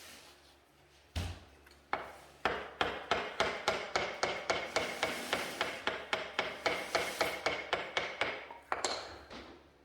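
A hammer striking repeatedly during brickwork. Two single knocks are followed by a steady run of quick blows, about three or four a second, with a ringing tone, stopping shortly before the end.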